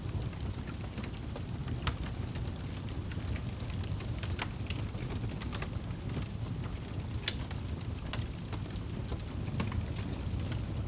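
Crackling fire with rain: a steady low rushing rumble, with scattered sharp pops and snaps throughout.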